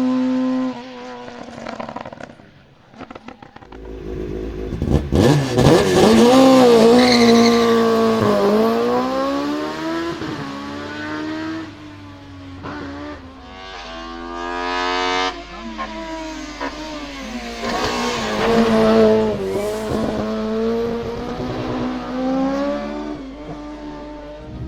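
Race car engine revved hard, its pitch climbing and dropping again and again through gear changes and lifts. It is loudest about six to eight seconds in, and a quick run of rising revs comes near the middle.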